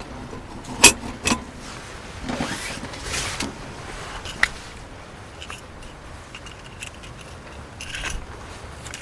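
Objects being handled: two sharp clicks about a second in, then two short rustles and a single click a little later.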